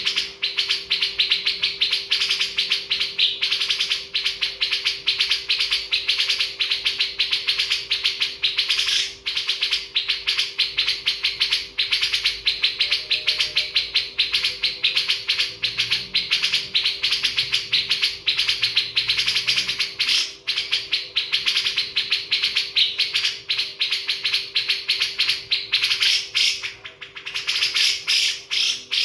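Small birds chirping rapidly and without a break, many calls overlapping, over a faint steady low hum.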